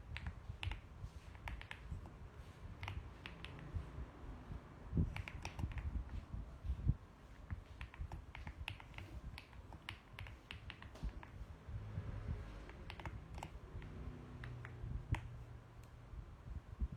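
Mechanical keyboard being typed on: irregular keystroke clicks, sometimes in quick runs, with brief pauses between words.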